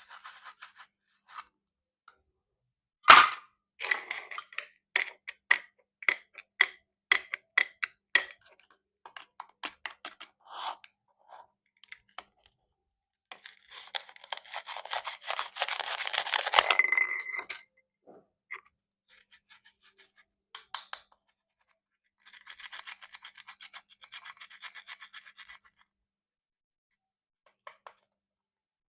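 Plastic toy fruit being cut and handled. A sharp click comes about three seconds in, followed by a run of separate clicks and taps, then a longer scraping cut and, later, a quick crackling run.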